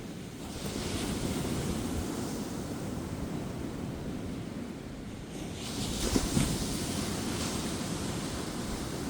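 Ocean surf breaking and washing up a beach: two swells of wave noise, the second louder, with a brief crash about six seconds in.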